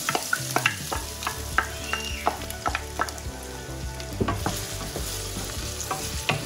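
Freshly added diced potatoes sizzling in hot gingelly (sesame) oil in a nonstick wok, with frequent sharp clacks and scrapes of a wooden spatula stirring them.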